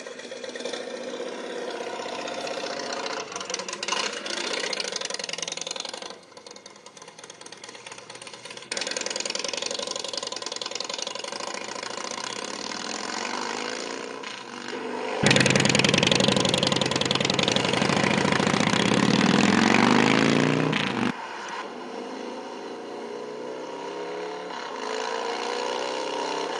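Motorcycle engines running and revving in several clips spliced together, the pitch rising and falling with the throttle. The loudest rev runs from about fifteen to twenty-one seconds in.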